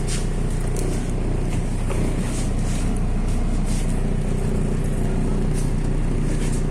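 MAZ-103 city bus engine running steadily, heard from inside the bus, with light scattered rattles.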